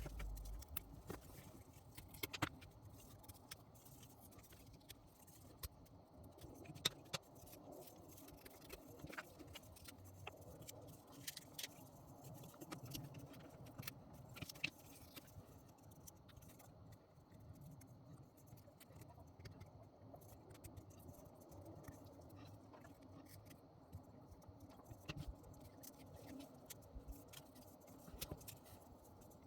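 Faint, scattered clicks and light taps of small wooden blocks being handled while old glued fabric strips are pulled off them, more frequent in the first half.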